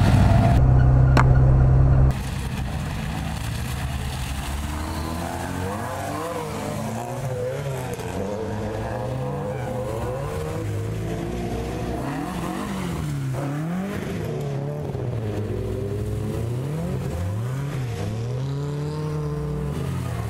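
Several Lada (VAZ Zhiguli) rally cars' four-cylinder engines revving, their pitch rising and falling again and again as they move about before a race start. A louder steady drone fills the first two seconds and cuts off abruptly.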